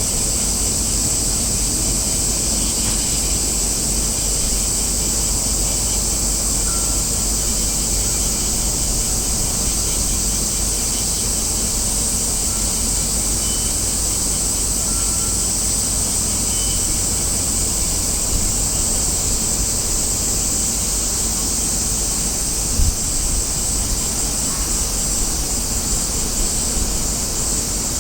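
Steady outdoor background noise: a constant high-pitched hiss over a low rumble, with one brief thump late on.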